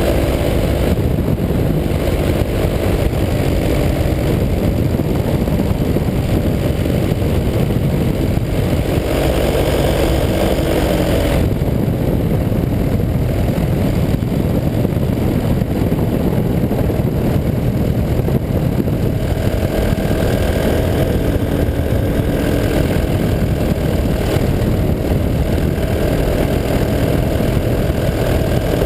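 185 cc paramotor engine and propeller running steadily in flight, loud and continuous, with the engine note shifting slightly a couple of times as the throttle changes.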